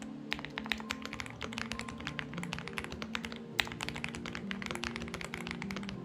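Rapid typing on a Xinmeng X98 mechanical keyboard: a dense run of key clicks, with one sharper, louder keystroke about three and a half seconds in. Soft background music with held notes plays underneath.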